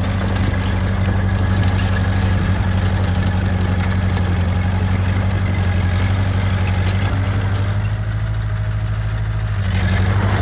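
Diesel engine of heavy earthmoving machinery running steadily at a low, even speed, with a strong low hum.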